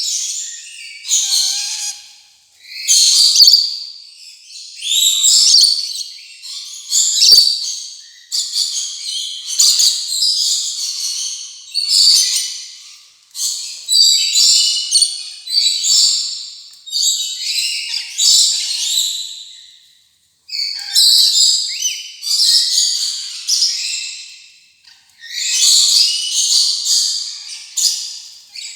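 Rainbow lorikeet chatter: shrill, screechy calls in bursts of about a second, repeating every second or two, with one short break about two-thirds of the way through.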